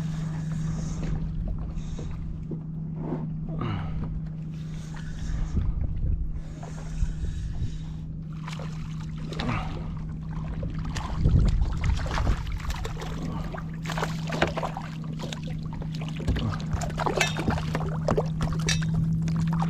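Kayak afloat: water moving against the hull with scattered light knocks, over a steady low hum.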